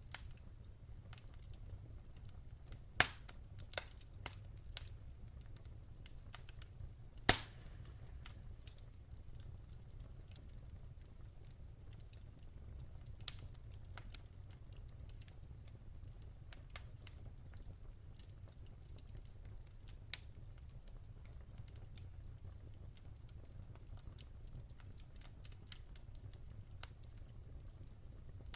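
Campfire burning: wood crackling with scattered sharp pops, the loudest about three and seven seconds in, over a low, steady rumble of flame.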